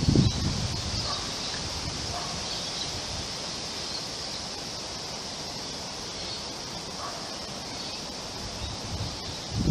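Wind blowing through trees with a steady rustle of leaves. A low gust buffets the microphone at the start, eases off within about half a second, and picks up again near the end. A few faint bird calls sound in the lull.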